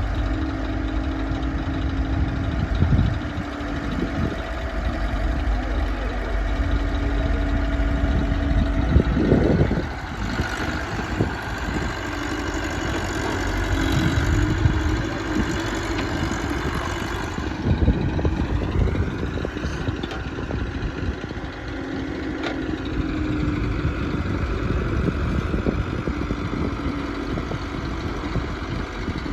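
Diesel engines of a JCB backhoe loader and an Eicher 480 tractor running, the engine note rising and falling through the middle as the loader works, with a few dull thumps.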